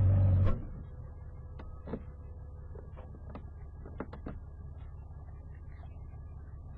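A loud, steady engine drone cuts off sharply about half a second in, leaving a quieter steady engine hum. A few light clicks and knocks come over the hum in the next few seconds.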